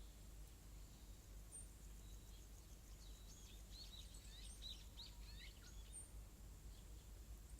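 Quiet rural evening ambience with a faint low rumble. About three seconds in, a bird sings a quick run of high chirps and trills lasting a couple of seconds, with a few single high peeps around it.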